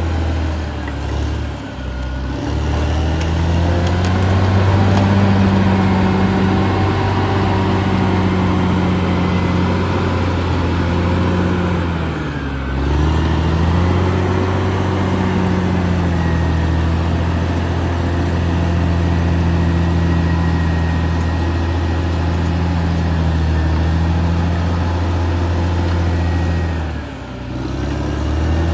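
Caterpillar D6R XL bulldozer's diesel engine running steadily under work. Its note sags briefly and recovers three times: about two seconds in, near the middle, and near the end.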